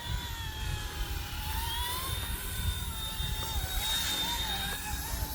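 RC ERA 186C Pro micro helicopter's electric motor and rotor whining in flight, the pitch wavering up and down as the throttle changes. Strong wind rumbles on the microphone underneath.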